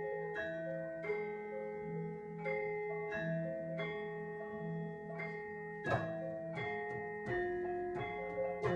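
A live band playing an instrumental passage: a run of ringing melodic notes over a steady, repeating bass line, with a few sharp percussive hits about six seconds in.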